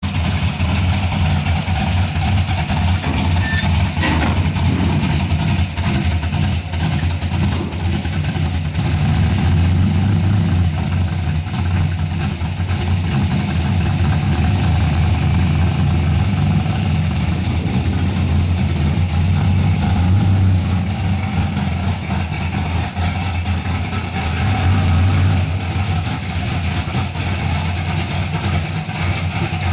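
Car engine idling steadily through a newly fitted aftermarket exhaust, with a deep, even exhaust note.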